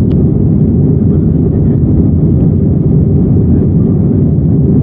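Steady low rumble of an Airbus A319-100's jet engines and airflow, heard from inside the passenger cabin.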